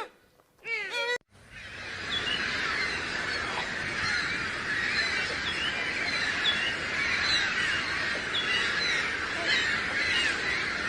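A short pitched call cuts off abruptly about a second in and gives way to a dense chorus of many birds calling at once, with overlapping short chirps.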